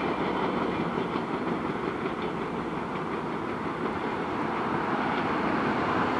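Alaska Railroad passenger train running past on the track: a steady rumble of wheels on rails with a faint clickety-clack.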